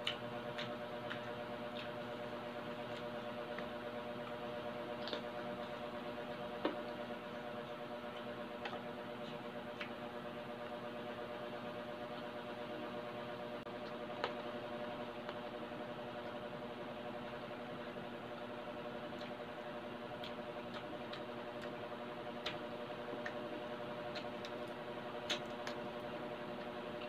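Close-up chewing of crispy deep-fried pork belly: sparse crunches and clicks over a steady background hum.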